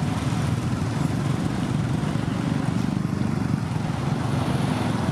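Heavy truck engine running steadily with a low, rough rumble.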